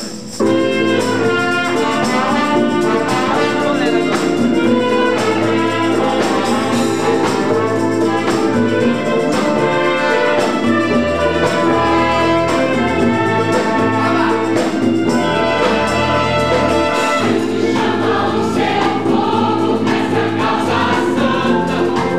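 Choir singing with brass band accompaniment, in the style of Christian gospel music.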